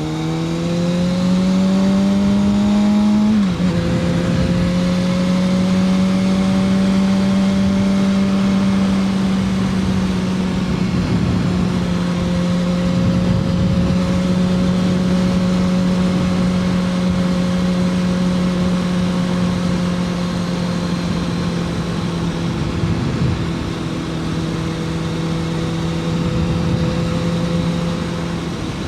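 2006 Kawasaki ZX-6R 636's inline-four engine under way: it revs up through a gear for a few seconds, drops in pitch with an upshift, then holds a steady cruising note with small rises and dips.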